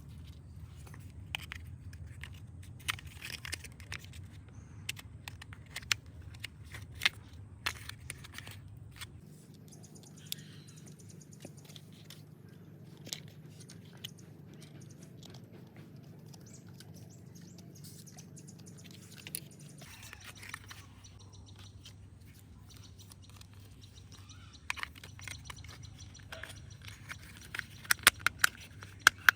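Plastic toy vehicle parts being handled and fitted together: irregular clicks, taps and crackles, coming in a quick cluster near the end, over a steady low hum.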